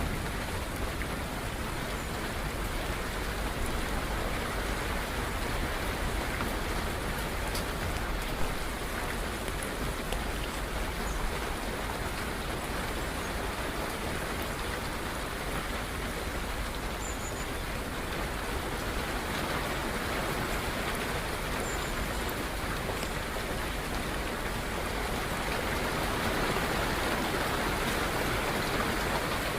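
Steady rain falling, with a couple of sharper drop hits about eight and eleven seconds in.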